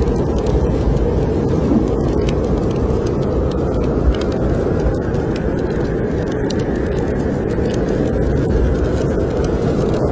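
Snowstorm wind blowing steadily, swelling in a gust around the middle, with faint crackles of a wood fire in a fireplace.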